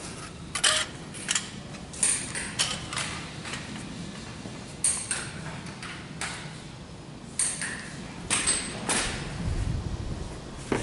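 Irregular metallic clinks and knocks, like tools and metal parts being handled, over a faint steady hum; a low rumble comes in near the end.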